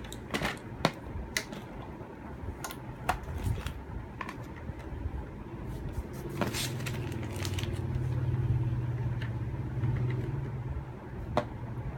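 Plastic clicks and knocks as a bag is fitted into a vacuum sealer and the machine is closed. Then, about six and a half seconds in, the sealer's vacuum pump starts and runs with a steady low hum for about five seconds, drawing the air out of the bag before the seal, and ends with a click.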